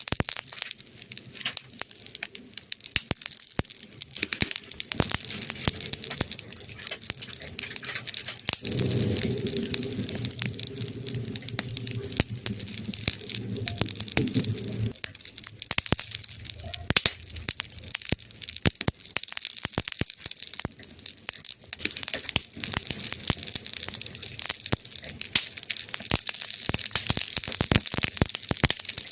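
Burning wood crackling and popping in a fireplace: many quick sharp pops over a steady high hiss. A low rumble joins it from about a third of the way in until about halfway.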